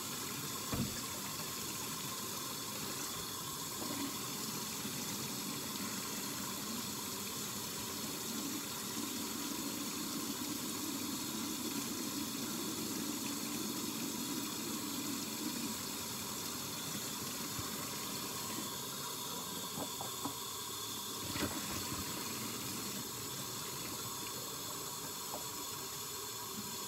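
Kitchen faucet running steadily into a sink during hand dishwashing, with a couple of brief knocks of dishes.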